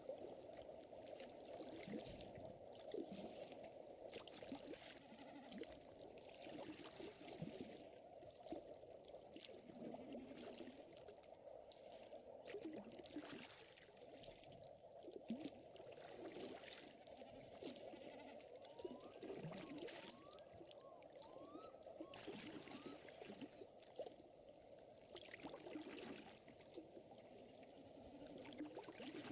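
Faint crackling fire with scattered sharp pops over a steady wash of gently trickling lake water, with a few short rising chirps about two-thirds of the way through.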